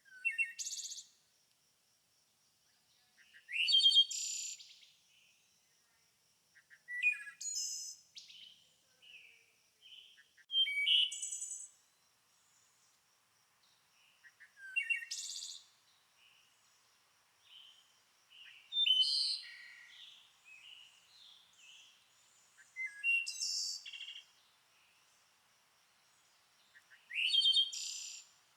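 A songbird singing short, varied, chirping phrases about every three to four seconds, each lasting about a second. A faint steady high tone runs underneath.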